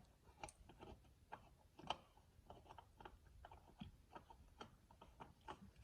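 Faint, irregular clicks and ticks as a new spin-on oil filter is screwed by hand onto the filter housing of a Mazda RX-7 FD's rotary engine, before its gasket seats.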